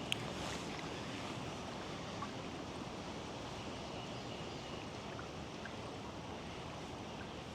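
Steady outdoor hiss of moving water and wind on a creek, with one sharp click right at the start and a couple of faint ticks about two seconds in.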